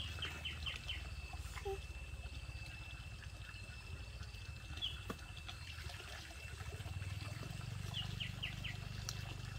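Rural ambience: a bird chirping in short runs of a few quick high notes, near the start and again near the end, over a steady thin high tone and a low rumble.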